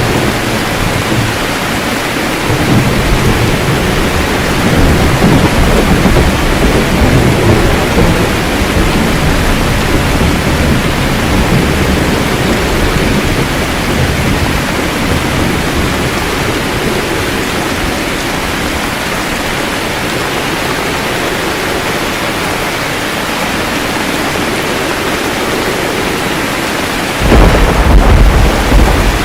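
Steady heavy rain with rolling thunder. A low rumble swells a few seconds in and fades over about ten seconds, and a sudden, louder crack of thunder comes near the end.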